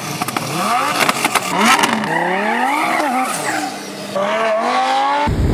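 Supercar engine revving up and down with sharp crackles and pops, then accelerating hard: the pitch climbs, drops once at a gear shift about three seconds in, and climbs again. The sound cuts off abruptly near the end.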